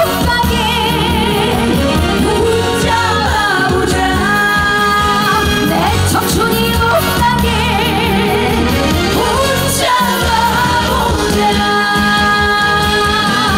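Live trot song: a woman singing with wavy vibrato over a backing band.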